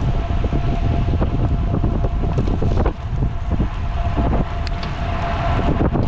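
Wind buffeting the microphone of a road bike moving at speed, a loud steady low rumble, with faint rattles and knocks from the ride.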